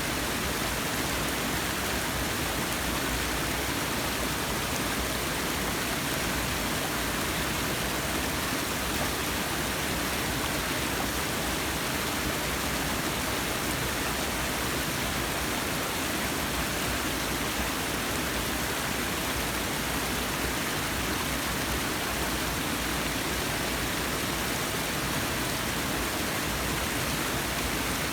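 Forest waterfall: water falling and splashing in a steady, even rush.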